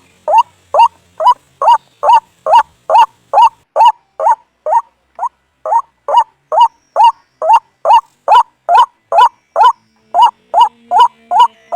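White-breasted waterhen (ruak-ruak) calling, as played for luring the bird to a trap. A steady, loud series of short rising notes, about two to three a second, with a brief break about five seconds in.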